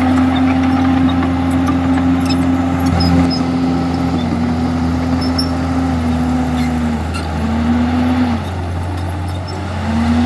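Komatsu D51EX bulldozer's diesel engine running under load. Its pitch shifts a little, then drops lower and quieter near the end before coming back up. Faint metallic clicks run over it.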